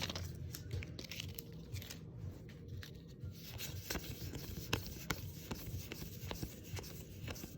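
Magic: The Gathering cards being handled: faint, scattered clicks and light scraping as cards are flicked and slid over one another.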